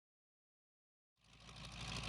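Car engine running, fading in from silence a little over a second in and growing steadily louder.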